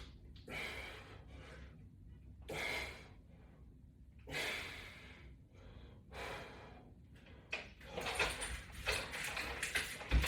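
A man's forceful breathing while exercising against resistance bands: four loud exhales about two seconds apart, then a busier stretch of clicks and rattles with breathing from about eight seconds in.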